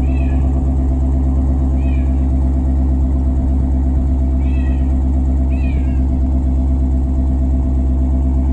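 A 2017 Shelby GT350R's 5.2-litre flat-plane-crank V8 running steadily at idle through its stock exhaust. Over the engine, a cat meows four times in short, falling calls, the last two close together.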